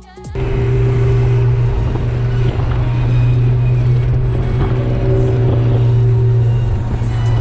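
Car engine and exhaust running at a steady speed, a loud, even low drone that cuts in suddenly about a third of a second in.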